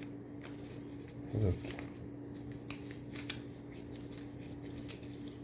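Paper banknotes being folded and handled by hand: scattered soft crackles and small clicks of paper, over a steady low hum.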